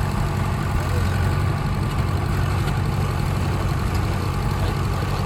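Tractor engine running steadily at a low, even speed, a deep drone with no change in pitch.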